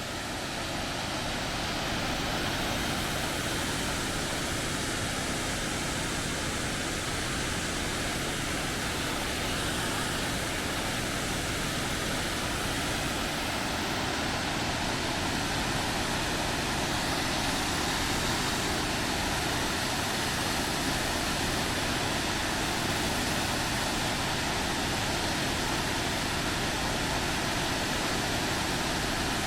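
Falling water from a large waterfall rushing, a steady, even noise that swells a little in the first two seconds.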